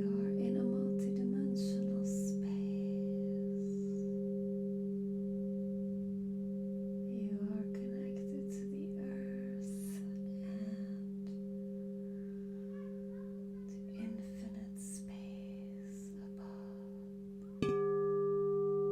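Singing bowls ringing: a steady low hum with overtones that slowly fades, with faint scratchy sounds over it at times. Near the end another bowl is struck, adding brighter tones and a sudden jump in loudness.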